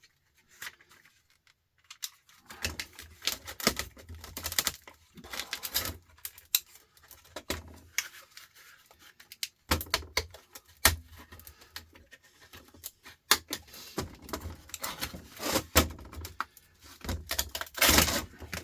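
Irregular clattering, tapping and rattling of hand tools against the plastic casing and metal parts of an old electric sander being taken apart, with a louder clatter near the end.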